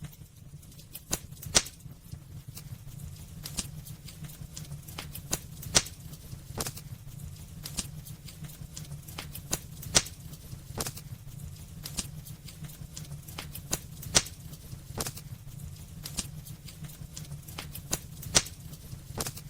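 Wood burning in a fireplace, crackling with irregular sharp snaps and pops, a louder pop every few seconds, over a steady low rumble.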